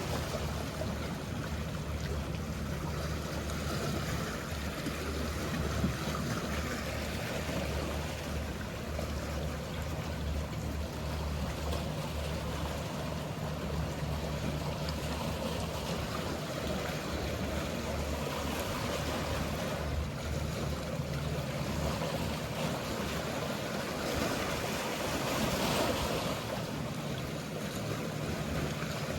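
Sea water washing and lapping, with the steady low hum of a boat engine running underneath; the wash swells briefly near the end.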